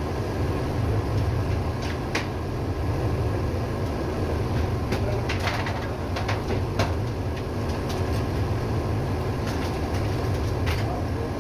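Ship's auxiliary engine running steadily in the engine room, a constant low drone, with a few sharp clicks and knocks scattered through it.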